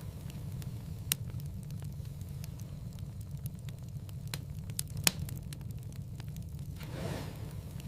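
Wood fire crackling in a fireplace over a steady low rumble, with a few sharp pops, the loudest about five seconds in, and a soft hiss that swells near the end.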